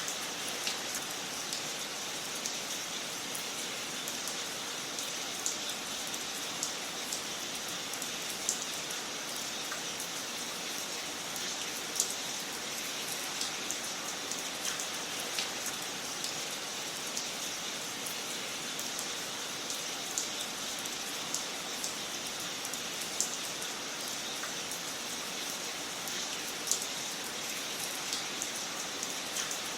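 Wood fire crackling in a fireplace: a steady hiss with frequent small, sharp pops and snaps at irregular intervals.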